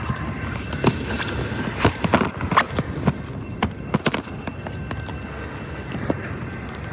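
A passing train's wheels clacking irregularly over rail joints against a steady rolling rumble.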